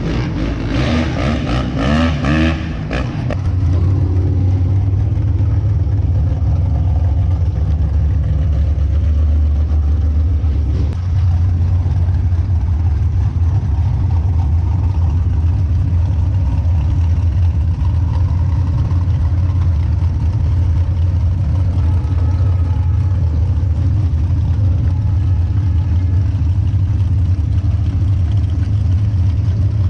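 A motor vehicle's engine revving for the first few seconds, then running with a loud, steady low rumble.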